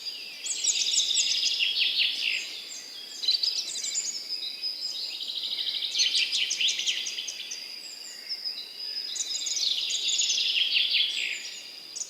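Several songbirds singing at once in a spring morning chorus: overlapping phrases of fast trills and chirps that swell and ease off in waves every few seconds, over a thin, steady high tone.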